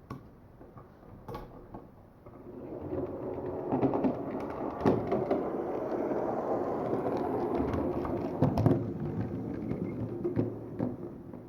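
HO scale model train rolling along the track: a rumble that builds about three seconds in, holds, and fades near the end, with a few sharp clicks from the wheels and couplings.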